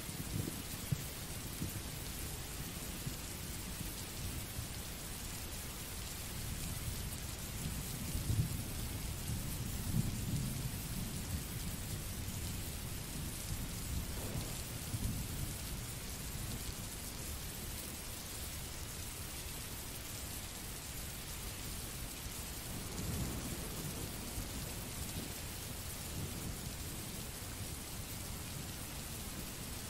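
Recorded rain sound effect: steady rainfall hiss with a few low rolls of thunder, the strongest about a third of the way in.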